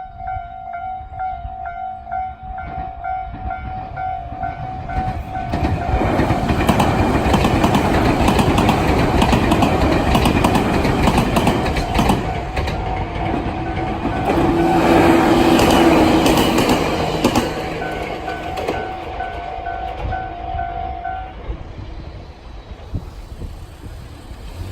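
Japanese level-crossing warning bell ringing in a rapid repeating ding, then electric trains running over the crossing, a loud rumble with wheels clacking on the rail joints that drowns the bell for several seconds before fading. The bell is heard again as the trains pull away and stops a few seconds before the end.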